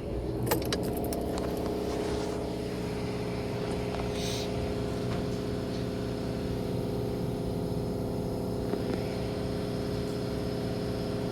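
Ram pickup truck's engine running steadily at idle, with a few sharp clicks about half a second in.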